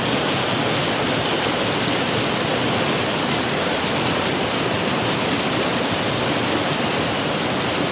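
Mountain creek water rushing steadily over rocks, an even hiss with no let-up. A single brief high tick sounds about two seconds in.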